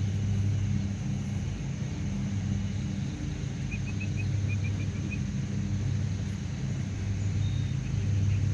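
Vehicle engine idling steadily, a low even hum. Around four seconds in, a bird gives a quick run of about nine short high chirps.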